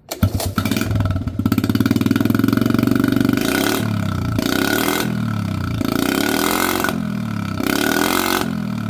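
Honda ATC70's small single-cylinder four-stroke engine running through its exhaust: it idles steadily for about three seconds, then is revved in a series of throttle blips about once a second.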